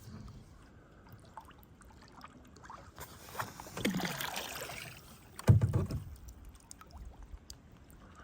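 Kayak paddling on a calm river: paddle blades dipping and swishing through the water with small drips and knocks, and one low thump about five and a half seconds in.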